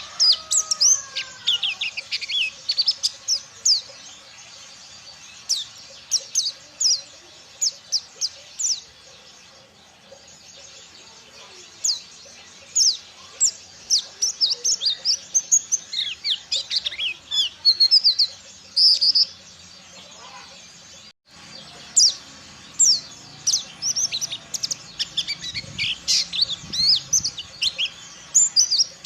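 White-eye (pleci, Ciremai strain) singing: rapid, high, sharp chirps and twittering phrases in bursts, with a quieter pause about ten seconds in.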